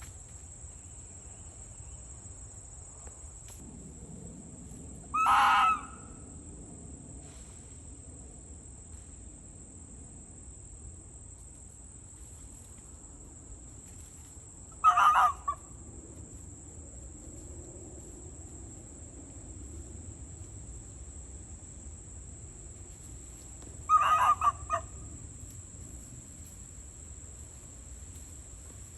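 A wild fox barking: three short, harsh barks about ten seconds apart, the later ones broken into two or three quick yaps. A steady, high-pitched insect drone runs underneath.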